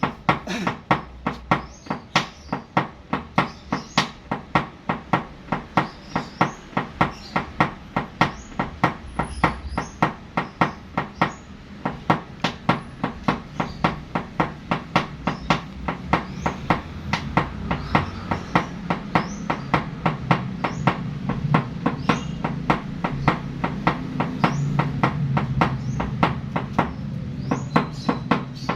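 Hammer tapping out a dent in metal, one sharp strike after another at about three a second, over a low steady hum that grows louder near the end.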